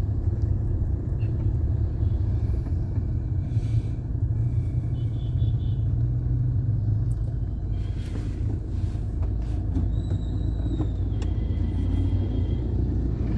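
Steady low rumble of busy road traffic at rush hour.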